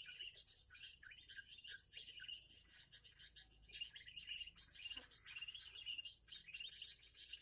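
Small birds chirping in quick, overlapping short notes, over a steady high-pitched insect drone.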